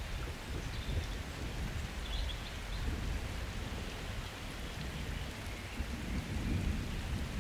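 Steady rain falling, with low thunder rumbling underneath that grows a little stronger near the end.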